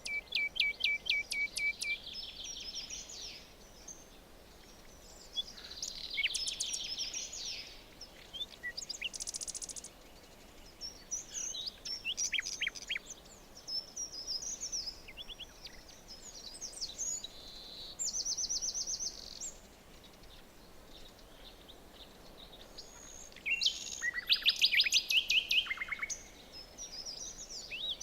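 Forest songbirds singing: phrases of rapid trilled and chirping notes, one to two seconds each, coming one after another with short pauses, over a low steady background hiss.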